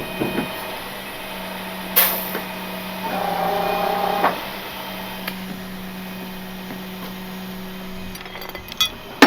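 Steady low hum of an idling truck engine, with a few sharp knocks and clicks and a short whine about three seconds in; the hum stops about eight seconds in.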